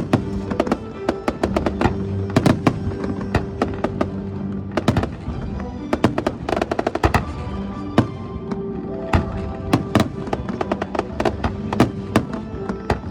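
Fireworks bursting and crackling many times in quick clusters, with music of steady held notes playing throughout.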